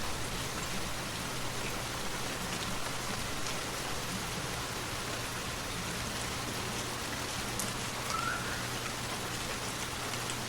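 Steady rain falling, an even hiss with scattered drop ticks. A brief faint rising chirp about eight seconds in.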